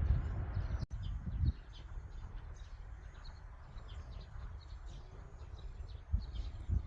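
Small birds chirping on and off in short high notes, over a steady low rumble of outdoor ambience.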